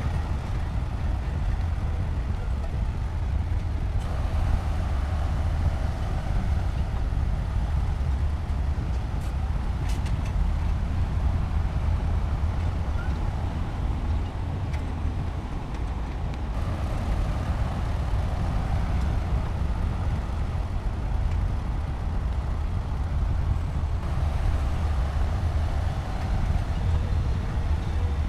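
Heavy diesel earthmoving machinery, a bulldozer with dump trucks, running steadily. It is a deep, continuous rumble whose tone shifts slightly a few times.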